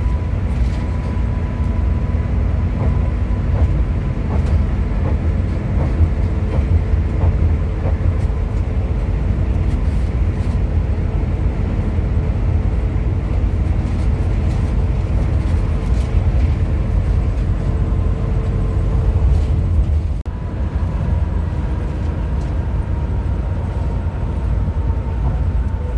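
Hino RM 280-powered coach under way: a steady, heavy low rumble of engine and road noise with faint steady tones above it, broken by a brief dip about twenty seconds in.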